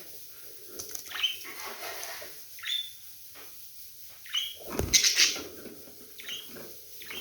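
Budgerigars chattering with short, high chirps and calls, with a louder, rougher burst about five seconds in.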